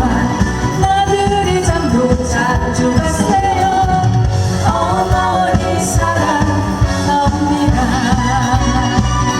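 A trot song sung live: a singer's voice carries the melody over a band accompaniment with a steady beat.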